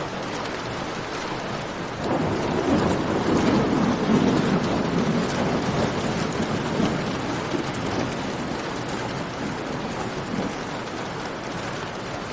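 Steady rain with a low roll of thunder that swells suddenly about two seconds in and slowly dies away. Faint pops of a crackling campfire sound through it.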